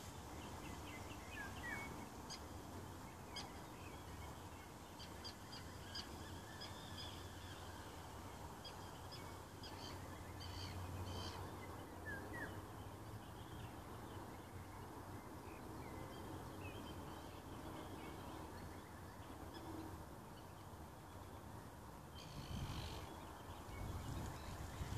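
Birds chirping and calling here and there, mostly in the first half and again briefly near the end, over a faint steady low background hum.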